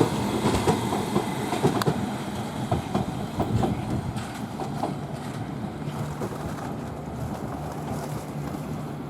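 London Underground District Line S7 Stock train running past and away, its wheels clicking over the rail joints over a steady hum. The sound fades steadily as the train draws off.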